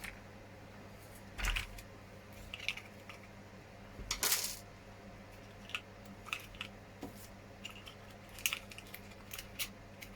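Small clicks, taps and rustles of hands handling small parts at a workbench, with two longer rustling bursts about a second and a half and four seconds in, over a steady low hum.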